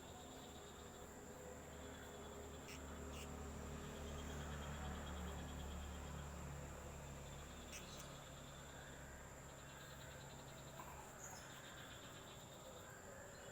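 Blue-crowned hanging parrot (serindit) giving three short, sharp, high chirps, over insects trilling in buzzy on-and-off spells and a steady high whine.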